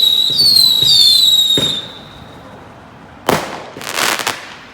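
Fireworks: several overlapping high whistles, each dropping a little in pitch, fade out about two seconds in. Then a sharp bang comes about three seconds in, followed by crackling.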